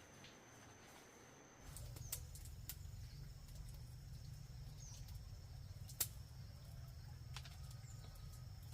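Faint outdoor ambience: a steady high insect-like tone, a few short chirps and sharp clicks, and a low rumble that sets in under two seconds in.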